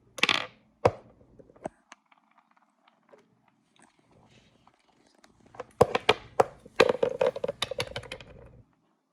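Small hard plastic objects being handled: a short rustle at the start, then scattered taps, and a quick flurry of clicks and scrapes from about six to eight and a half seconds in.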